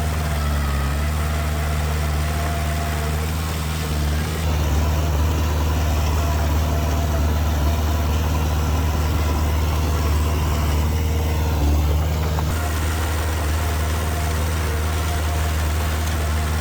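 Heavy-equipment diesel engine running steadily, its low hum unbroken and a little louder for several seconds in the middle.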